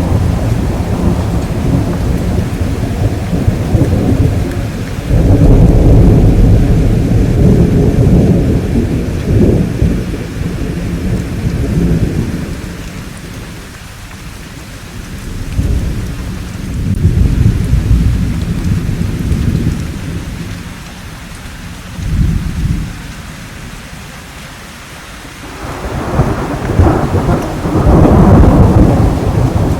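Rolling thunder rumbling over steady rain. The thunder swells and fades several times: a long loud stretch through the first dozen seconds, shorter rumbles around the middle, and another swell near the end.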